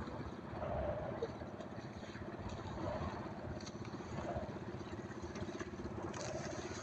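A small fishing boat's engine running steadily with a fast, even pulse.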